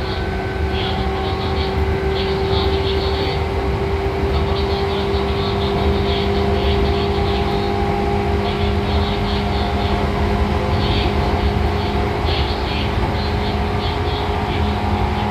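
Seibu 2000 series electric train running at a steady speed: a constant low rumble of the wheels on the rails under a steady motor and gear hum, with short, irregular patches of higher hiss from the track.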